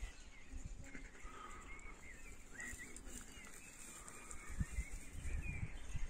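Small birds chirping and twittering in brushy scrub, short high calls scattered through, over a faint steady high hiss. Low dull thumps come in over the last second and a half.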